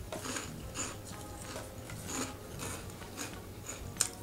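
Cheese balls (crunchy puffed corn snacks) being chewed with the mouth close to the microphone: a crisp crunch about twice a second, with a sharper crack near the end.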